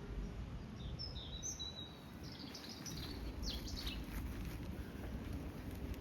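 Small birds chirping: a few short high chirps, then a run of quick downward-sweeping notes, over steady low background noise.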